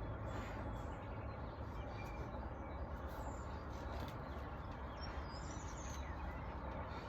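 Faint scattered bird chirps over a steady low background rumble.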